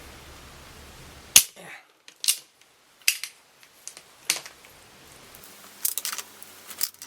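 Metal hand tools clinking and tapping against engine parts, in a handful of sharp separate clicks, the loudest about a second and a half in.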